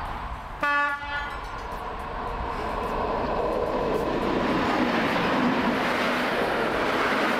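A train's horn sounds once, briefly, about half a second in. A train then comes through close alongside the platform, its rumble and wheel noise growing steadily louder.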